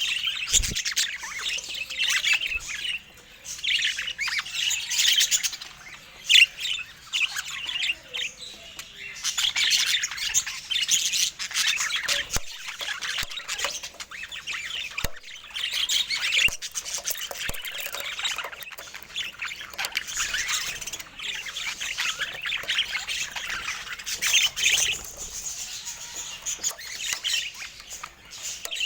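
Budgerigar chatter: rapid chirps, squawks and warbles that keep going with short lulls.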